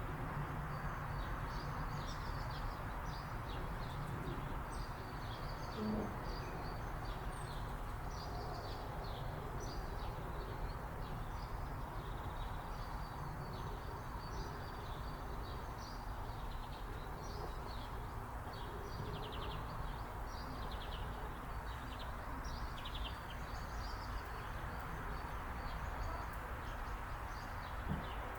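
Small birds chirping: many short, high calls, scattered all through, over a steady low background hiss.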